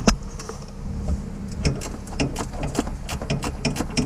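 Hand ratchet wrench clicking in quick runs as the truck's strut mounting bolts are worked loose, after a single sharp metal click near the start. A steady low hum runs underneath.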